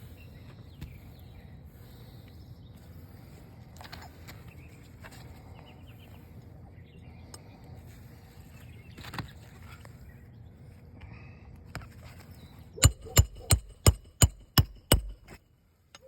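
Scattered light clicks and scrapes over a low steady background, then near the end seven quick, sharp hammer strikes, roughly three a second, each with a metallic ring, as a roofer works the nails of an asphalt shingle.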